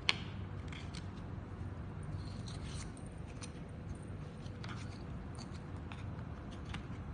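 Light clicks and taps of toy puzzle pieces being handled, scattered irregularly, the sharpest right at the start, over a steady low hum.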